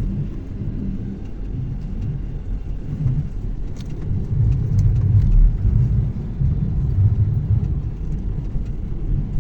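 Car driving over snow-covered river ice: a steady low rumble of engine and tyres that grows louder for a few seconds in the middle, with a few light knocks.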